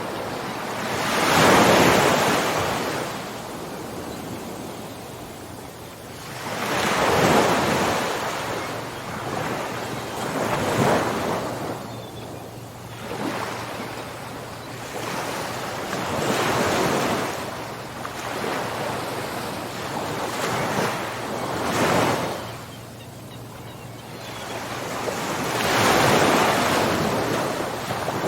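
Ocean surf: waves break every few seconds, each one a swelling and fading rush over a steady wash of water.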